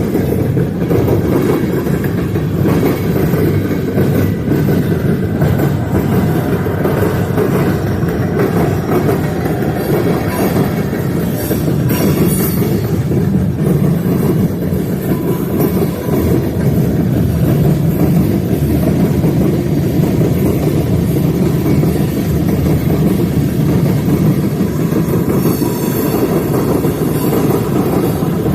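Freight train rolling past, a loud steady rumble of its wheels on the rails.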